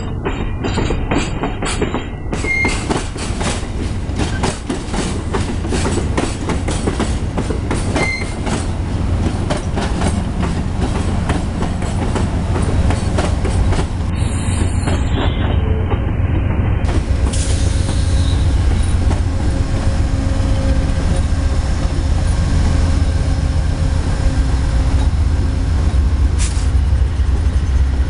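Amtrak passenger train backing slowly past at close range, its car wheels clicking over rail joints and a track switch. In the second half the diesel engine of the GE Genesis P42 locomotive running at the trailing end grows louder as it draws level.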